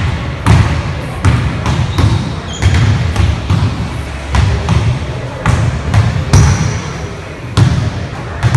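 Gym noise: irregular heavy thuds and knocks, roughly one a second, over a continuous background din.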